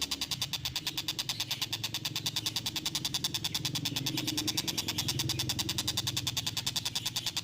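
Tengkek buto kingfisher giving its fast, unbroken rattling call, about ten even pulses a second, a steady chugging that sounds like a train.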